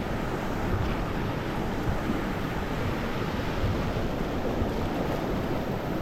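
Steady rushing of water at a waterfall and rapids.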